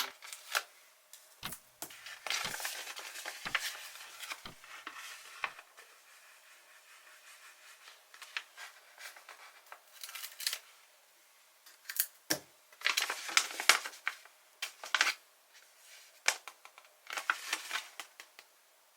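Paper stickers being peeled off their backing sheet and pressed and rubbed onto a sticker page: irregular short crinkling and scraping strokes in clusters, with quiet gaps between them.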